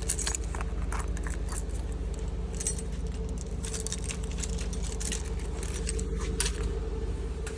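A car engine idles steadily, with scattered light clicks and rattles over it.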